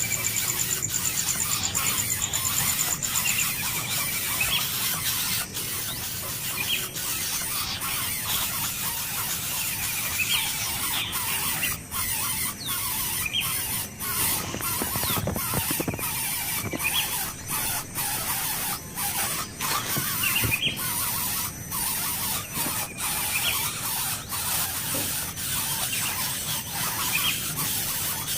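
Nestling birds begging with continuous high-pitched squealing, with short chirps recurring every couple of seconds.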